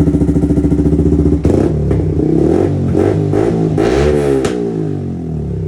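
Yamaha MT-15's single-cylinder engine running through a newly fitted Akrapovic exhaust: a steady idle, then revved up and down several times from about a second and a half in before settling back toward idle.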